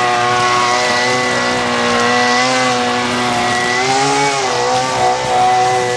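Zero-turn mower engine running steadily at working speed. Its pitch dips briefly about four seconds in, as if under a momentary load, then recovers.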